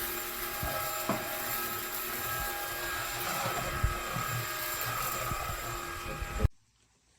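MONSGA cordless stick vacuum cleaner running, a steady rush of air over a whining motor, with a few short knocks. It cuts off suddenly near the end.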